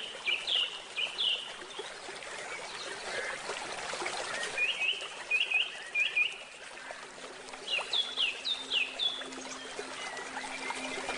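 A songbird singing three bursts of quick, repeated down-slurred chirps, each about a second or so long, over the steady trickle of running water. A faint low held note comes in about halfway through.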